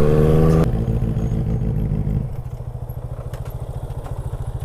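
Benelli 600i's inline-four engine on the move: its steady running note drops off about half a second in, and from about two seconds in it settles to a quieter, low, even pulsing as the throttle is closed.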